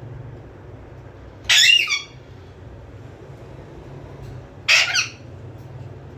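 A pet parrot giving two loud, high calls about three seconds apart, each about half a second long.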